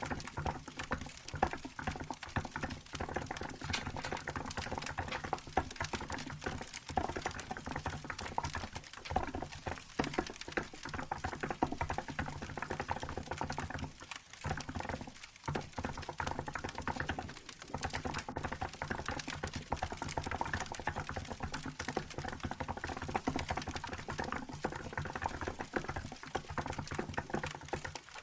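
Typing on a Hansung GK868B mechanical keyboard with milk-white keycaps: a fast, continuous run of keystroke clacks with a few short pauses in the middle.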